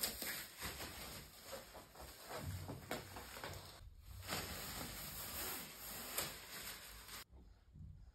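Household handling noises: small knocks and clicks over a rustling hiss, cutting off abruptly about seven seconds in.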